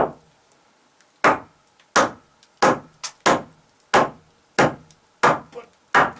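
Repeated sharp blows struck on wood: about ten strikes, roughly one every two-thirds of a second, each dying away quickly.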